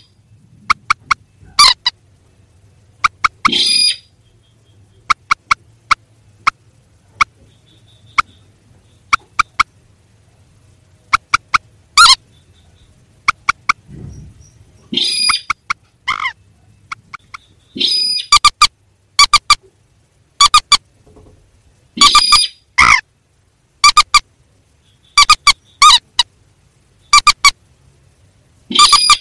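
Bird-lure recording of calls of mandar and sintar, rails of rice fields and marshes: short, sharp, repeated notes in irregular runs, with a few longer notes among them.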